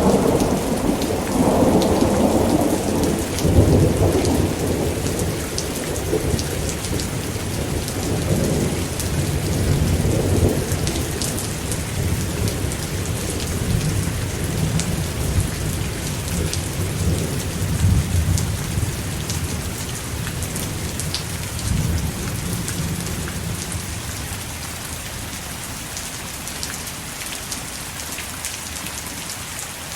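Thunderstorm: steady pouring rain with long rolling thunder rumbling underneath. The thunder dies away over the last several seconds, leaving only the rain.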